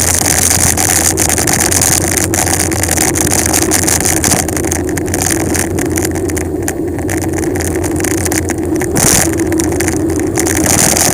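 Steady rush of wind over the microphone of a bicycle descending a mountain road at speed, with tyre noise on the road beneath.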